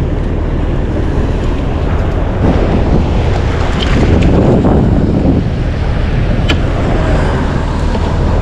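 Wind buffeting the microphone and water slapping against a small boat's hull, over a steady low hum, with a swell of louder splashing noise in the middle and a sharp click about six and a half seconds in.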